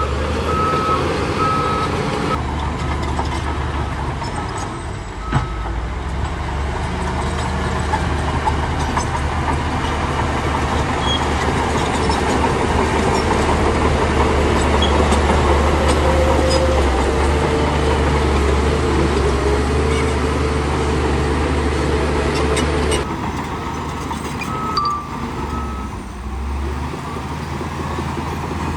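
Heavy diesel earthmoving machinery running under load, a steady low engine drone with track and hydraulic noise. A reversing alarm beeps in short repeated bursts near the start and again near the end.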